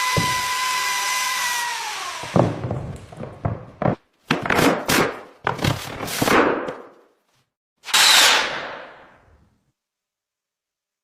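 A power tool runs with a steady whine for about two seconds and winds down, followed by a string of knocks and thuds on construction material and then a fading whoosh.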